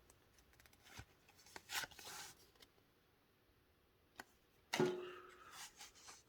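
Trading cards being handled: a few soft rustles and light taps of cards and plastic card sleeves, with the longest rustle about five seconds in.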